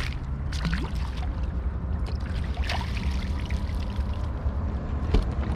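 Wind rumbling steadily on the microphone, with small splashes and trickling water as a hooked shad is brought alongside the kayak.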